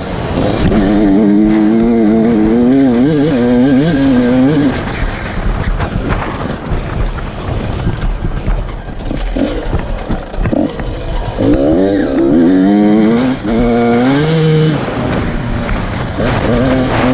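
Enduro dirt bike engine revving up and down under the rider's throttle on a rough trail. Its note wavers and climbs in two strong stretches, about a second in and again from about twelve to fifteen seconds, with lower, rougher running between.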